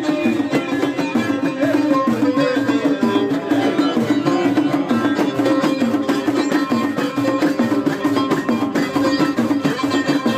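Traditional folk music: hand drums keep a fast, steady beat under plucked string instruments playing a melody.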